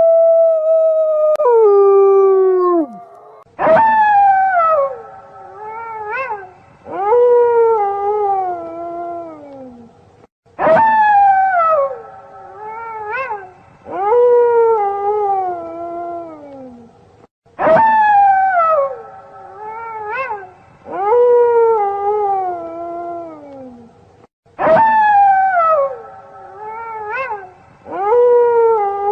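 Wolves howling: one long, steady howl that drops in pitch and fades out about three seconds in, then several overlapping howls, each sliding downward in pitch. The same set of howls repeats about every seven seconds, as a loop.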